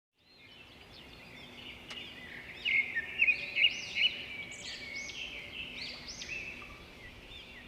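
Several small birds chirping and whistling, their short rising and falling calls overlapping, louder for a burst from about a third of the way in.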